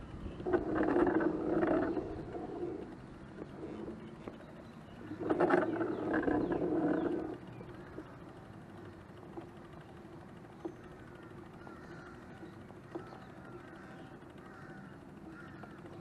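Two loud bird calls, each lasting about two seconds, about five seconds apart, with faint chirping from other birds in between.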